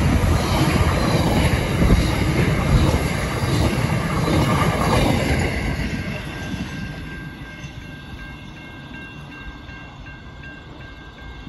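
Tail end of a freight train of empty container flat wagons rolling past on the rails, then fading away about six seconds in as the last wagon passes.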